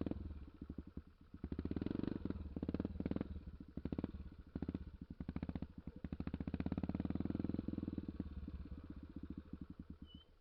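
Honda XR 250 Tornado single-cylinder four-stroke motorcycle engine running under a rider, the throttle opening and closing so the level swells and dips several times. The engine sound stops abruptly near the end.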